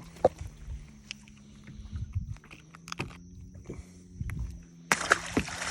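Scattered sharp clicks and knocks of rod, reel and lure being handled in a small boat, with a short rushing burst of noise about five seconds in, over a faint steady low hum.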